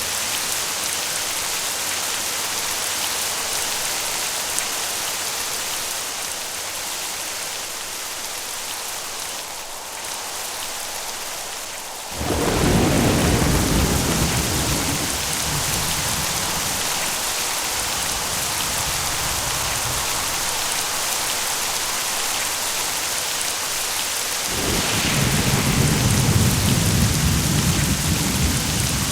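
Steady rain with two rolls of thunder. A low rumble breaks in suddenly about halfway through and dies away over several seconds; a second rumble starts a few seconds before the end.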